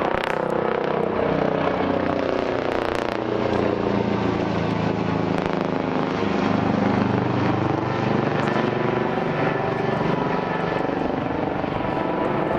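Search-and-rescue helicopter approaching, loud and steady, its rotor and engine tones drifting slowly in pitch as it comes in.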